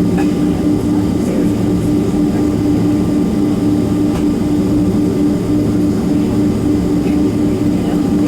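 Boeing 767-300's twin jet engines heard from inside the passenger cabin: a steady, unchanging roar with a constant low hum.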